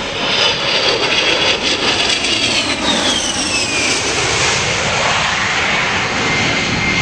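A-10 Thunderbolt II's twin TF34 turbofan engines, loud and steady as the jet passes, with a high engine whine that drops sharply in pitch about three to four seconds in as it goes by.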